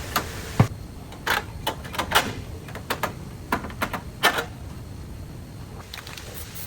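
Irregular clicks and light knocks of hand work on car parts, about a dozen over four and a half seconds, the loudest about half a second in, over a steady low background hum.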